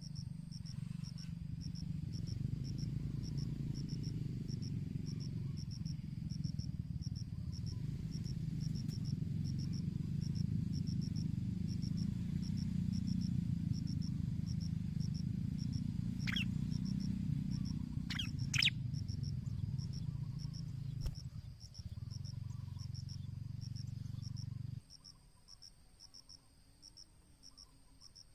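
A cricket chirping steadily, about two pulses a second, under a louder low rumbling noise that stops abruptly near the end. A few brief high chirps come past the halfway point.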